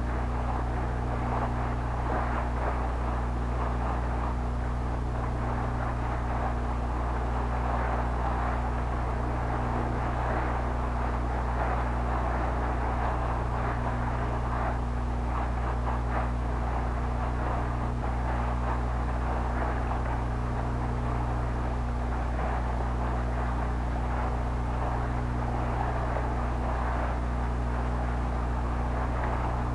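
A steady engine drone running evenly throughout, with a constant low hum.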